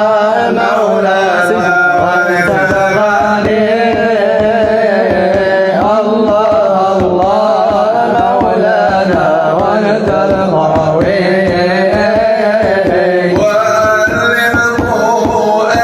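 Devotional song: voices singing a melodic line over hand-drum percussion that keeps a fast, even beat.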